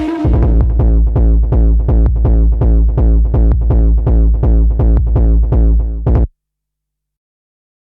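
Acid tekno music reduced to a heavy drum-machine kick pounding about three times a second, each hit trailing a falling tone. The track cuts off abruptly about six seconds in, leaving silence.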